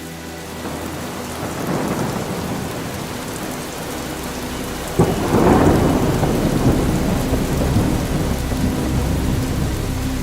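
Steady rain with thunder: a rumble swells about a second and a half in, then a sudden thunderclap about five seconds in rolls on as a long rumble.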